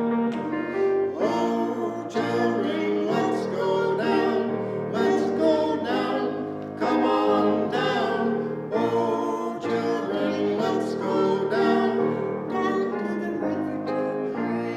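Hymn singing with instrumental accompaniment, the melody moving continuously from note to note.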